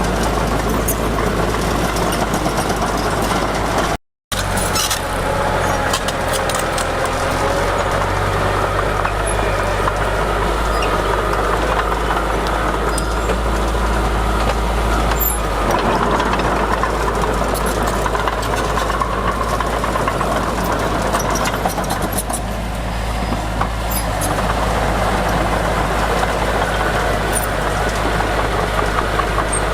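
Heavy diesel construction machinery running steadily with a deep engine drone. It cuts out briefly about four seconds in, then carries on the same.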